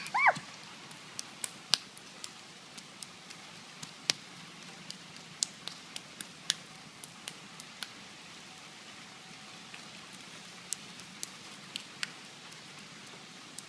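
Rain dripping: scattered drops ticking irregularly over a faint steady hiss, after two short high cries at the very start.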